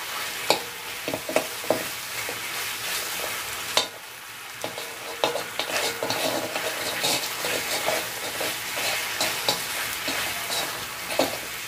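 Pork feet in a sticky gochujang sauce sizzling on a hot round grill pan while being stirred with a metal spoon and a wooden stick, with frequent scrapes and clicks of the utensils against the pan. A sharp clack comes a little under four seconds in.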